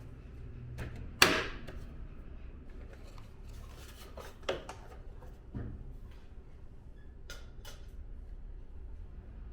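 Scattered clicks and knocks of a split air conditioner's indoor-unit parts being handled and fitted back together, the loudest a sharp knock with a short ring about a second in, over a low steady hum.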